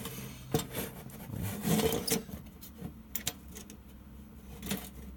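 Louvres of a fireplace vent grille being worked by hand: the slats slide with a scraping rub and a few light clicks.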